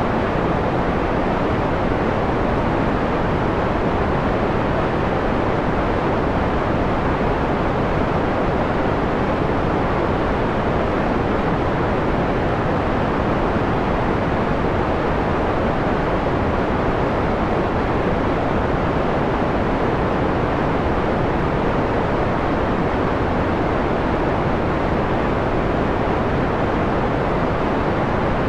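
Steady synthetic white noise filtered down to a mellow, dark quality: an even hiss with its treble rolled off, so it sounds low and soft rather than bright.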